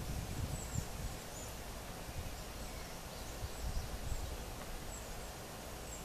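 Outdoor ambience: a steady hiss with faint, short, very high chirps from small birds scattered throughout, and low rumbles in the first second and again around four seconds in.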